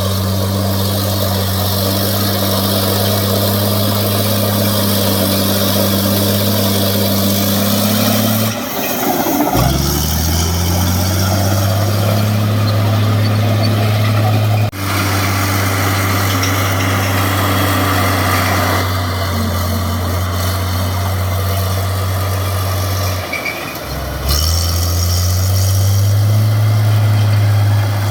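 A heavy construction machine's engine running at a steady idle. About nine seconds in, and again near the end, it drops down and then picks back up to a slightly different steady speed.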